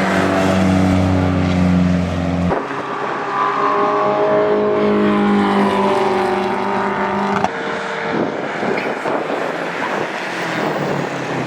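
Car engines running in several shots cut together. The engine note changes abruptly about two and a half seconds in and again past halfway, with a slowly shifting pitch in between.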